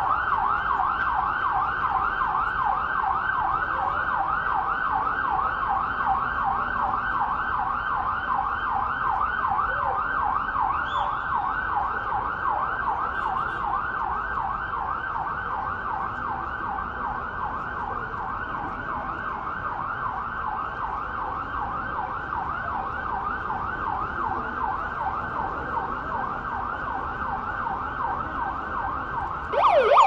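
Electronic emergency-vehicle siren on a fast yelp, its pitch sweeping up and down several times a second. Just before the end a louder, lower-reaching siren tone takes over.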